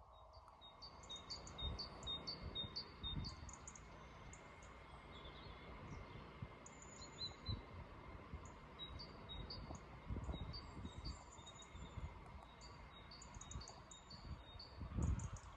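Small birds singing: runs of short, high chirps and trills, over faint low rumbling.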